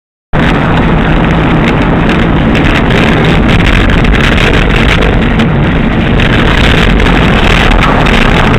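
Loud, steady rumble of a moving vehicle with wind buffeting the microphone, cutting in suddenly just after the start.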